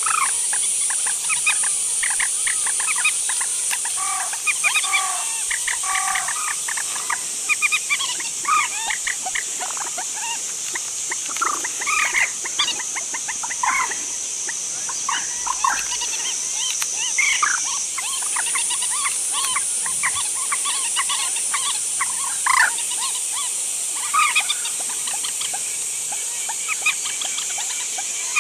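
A group of rail-type birds calling: many short, rapid chirps and clucks overlapping, over a steady high hiss.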